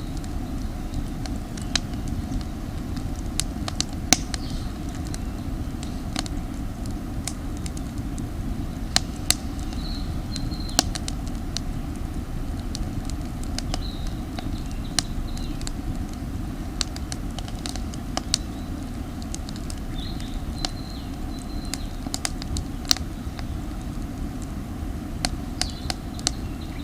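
Campfire of damp firewood crackling, with sharp irregular pops every second or so over a steady low rush. There are a few faint, brief high whistles.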